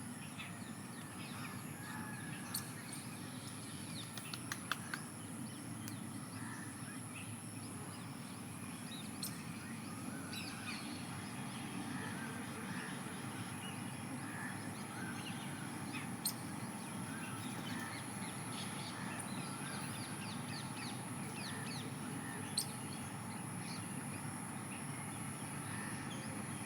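Outdoor ambience of birds chirping, with many short calls scattered through it, over a steady low background noise and a thin, steady high-pitched whine. A few sharp clicks stand out now and then.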